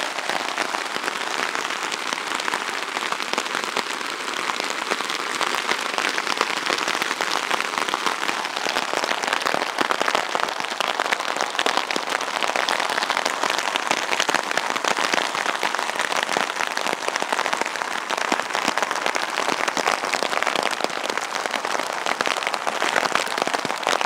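Hail and rain coming down hard: a dense, steady patter of countless small hailstone impacts, getting a little heavier about a third of the way in.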